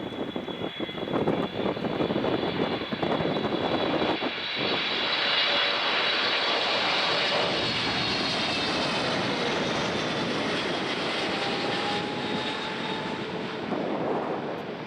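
Boeing 777-300ER's twin GE90 jet engines at high power as the airliner passes: a loud steady rush with a high whine that slowly drops in pitch, swelling through the middle and easing slightly near the end.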